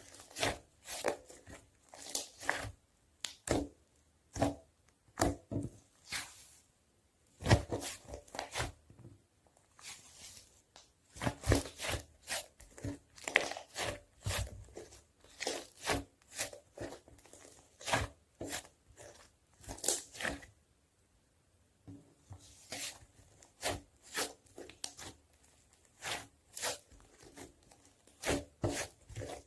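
Hands squishing, stretching and pressing a clay slime, making irregular sticky crackles and pops about once or twice a second.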